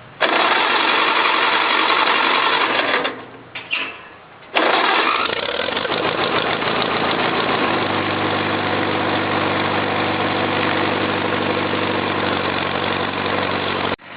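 Farmall Cub's four-cylinder flathead engine on a cold start: it is cranked for about three seconds, stops, then on the second try catches about four and a half seconds in and runs. It is rough at first and settles into a steady idle after a few seconds.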